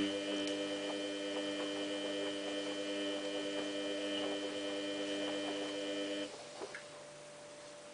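Samsung WF8804RPA washing machine giving off a steady electric hum with several overtones, which cuts off about six seconds in.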